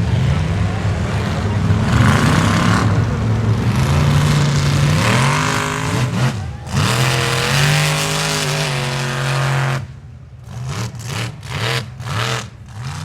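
Square-body Chevy mud truck's engine revving hard under load, its pitch climbing and sagging. About ten seconds in it drops off, then is blipped in several short bursts.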